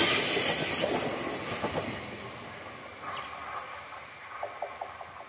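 Wheel and rail noise of a loaded grain train's hopper wagons fading away as the last wagon moves off round a curve. A high hiss is loudest in the first second, then the sound dies down steadily, with a few faint ticks near the end.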